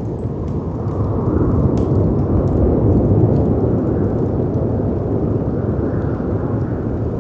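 Storm ambience: heavy wind and sea waves crashing, a deep dense surge that swells about a second in and again near the end, with a few sparse pops from a crackling fireplace on top.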